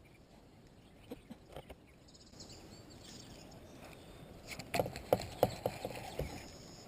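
A run of light clicks and knocks about five seconds in, over a faint outdoor background, after a near-silent start.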